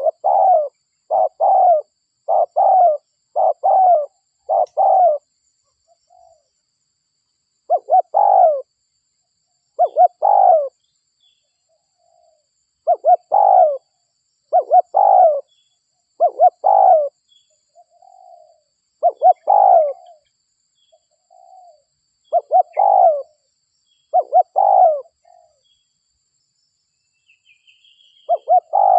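Spotted dove (derkuku) cooing over and over in short repeated phrases of a few notes each, with a couple of brief pauses: a dove lure call. A faint higher bird chirp comes in near the end.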